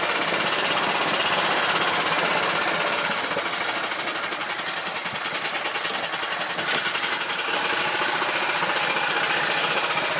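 Karakat's small engine running steadily with a fast, even chatter of firing strokes. It eases a little a few seconds in, then picks back up.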